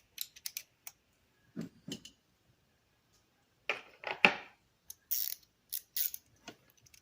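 Hand wrenches clicking and clinking on the nut and bolt of a golf cart's starter-generator belt tensioner as it is loosened, in short irregular bursts, with the loudest cluster a little past halfway.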